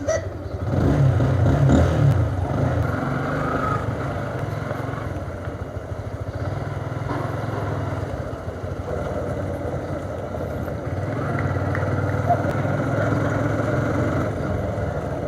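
Motorcycle engine running steadily on the move, a little louder in the first two seconds.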